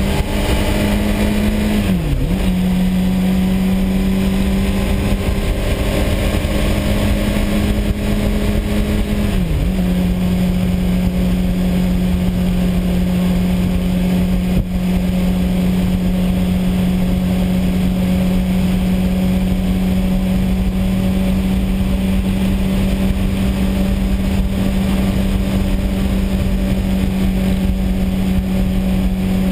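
Honda CBR600RR's inline-four engine running at steady cruising revs at about 50–60 mph, heard under the constant rush of wind on the microphone. The engine note dips sharply and recovers twice, about two and nine seconds in, then holds steady.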